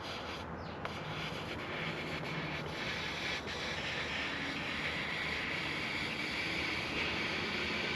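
Hot plastic-welder tip rubbing and scraping along a crack in a plastic motorcycle side cover, melting it together, over a steady hiss that grows a little louder about three seconds in.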